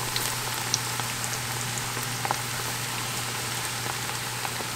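Battered lobster chunks frying in oil in a cast-iron skillet: a steady sizzle with scattered small pops.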